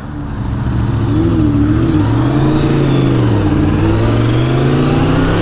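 Honda VFR's V4 engine pulling away and accelerating: its pitch climbs, dips once about three seconds in, then climbs again.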